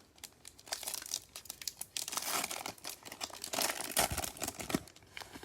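Plastic wrapper of a baseball card pack being torn open and crinkled, an irregular crackling that grows busier about two seconds in.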